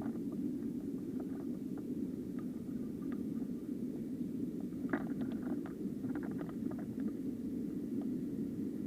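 Small mountain stream flowing, a steady low rush of water, with scattered faint ticks and light splashes, clustered about five to seven seconds in.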